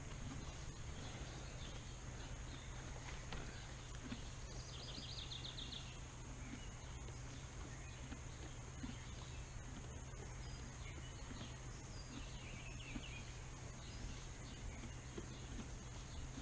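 A small songbird gives two short, rapid trills, one about four seconds in and another around twelve seconds, over a steady low hum.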